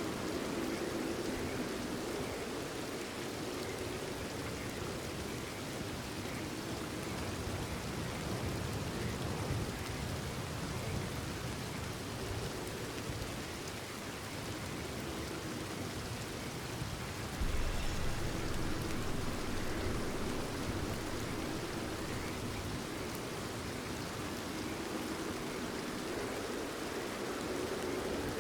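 Steady rainfall, an even patter and hiss. About two-thirds of the way through, a low rumble comes up suddenly and eases off over the next few seconds.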